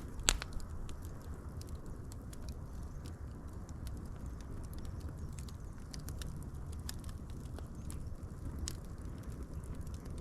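Wood fire burning with a steady low rush and scattered sharp crackles and pops, one loud pop just after the start.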